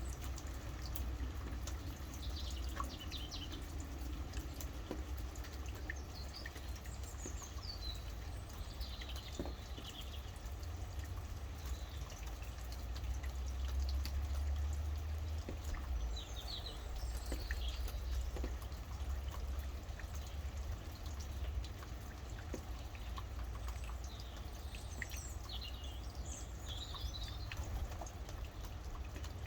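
Rain dripping and pattering steadily over a low rumble, with birds chirping in short bursts of calls every few seconds.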